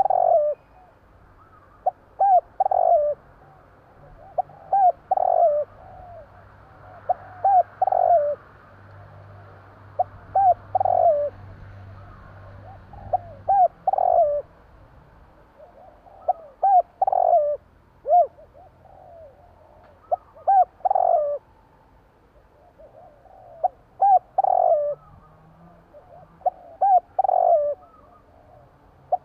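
Spotted dove cooing: a repeated phrase of two short notes ending in a longer coo, about once every three seconds.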